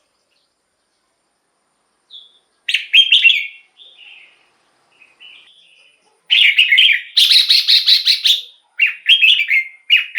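Red-whiskered bulbul singing. After about two seconds of silence comes a short, bubbly, warbling phrase, then a few soft notes, then a run of loud phrases in quick succession through the second half.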